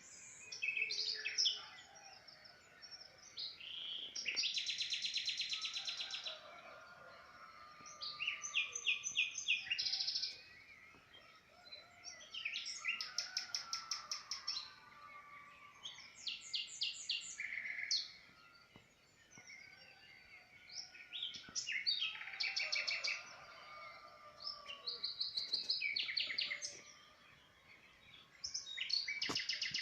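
A songbird singing: a series of varied phrases, each a second or two of quick repeated notes and trills, coming every three to four seconds with short pauses between.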